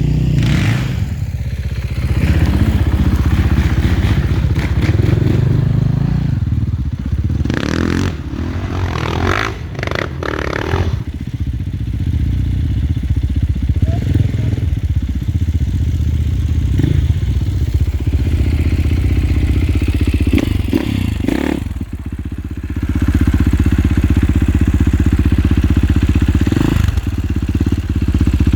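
Off-road dirt bike engine running close by, its pitch rising and falling as it is throttled, with a few knocks and clatter around the middle; it gets louder and steadier near the end.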